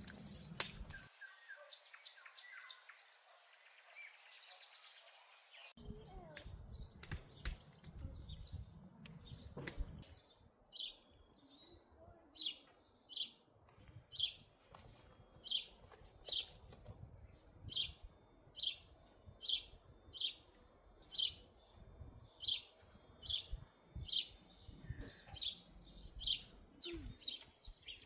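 A bird chirping over and over, short high chirps about once a second, settling into a steady run about ten seconds in.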